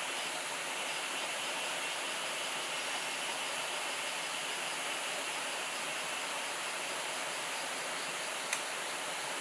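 Steady rushing of a river, with a faint steady high-pitched hum over it and one sharp click near the end.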